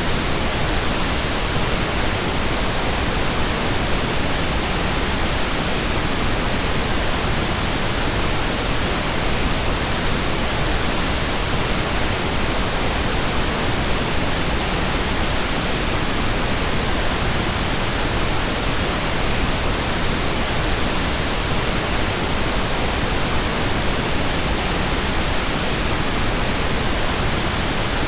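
Pink noise: a steady, even hiss across all pitches, unchanging throughout.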